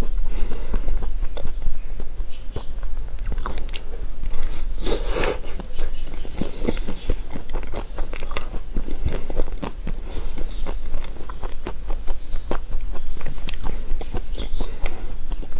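Close-miked mouth eating sounds: biting and chewing with many sharp, irregular clicks and smacks, over a steady low hum.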